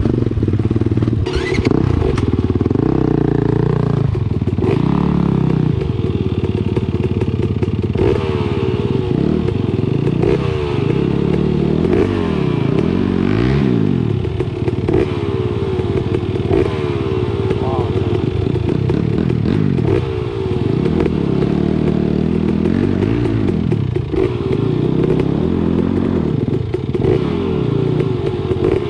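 Dirt bike engine running under way, revving up and falling back over and over as the throttle opens and closes, with short knocks scattered through.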